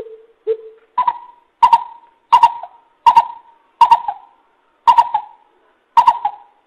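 Coucal hooting: a series of about nine deep, evenly spaced hoots, the first two low and the rest jumping higher in pitch.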